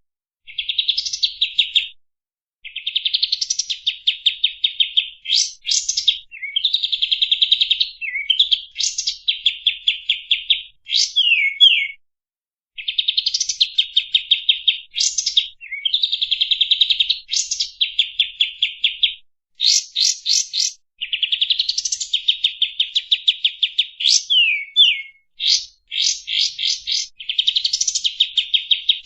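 Kapas tembak songbird singing in a masteran training recording: repeated phrases of fast, chattering trills, with quick downward-sliding whistled notes between them and short pauses between phrases. The recording is thin and high, with nothing low in it.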